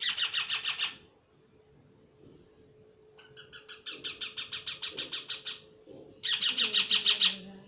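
Parrot giving three bouts of rapid repeated calls, each a quick string of short high notes. The first and last bouts are the loudest, and the middle one is longer and softer.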